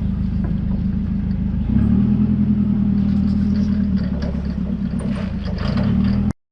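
Engine running steadily at a constant pitch, getting louder about two seconds in, with some light clattering. The sound cuts off abruptly near the end.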